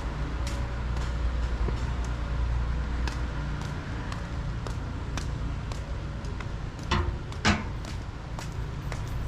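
A motor vehicle's engine rumbling past, loudest in the first six seconds, over a walker's footsteps ticking about twice a second. Two sharper sounds come about seven seconds in.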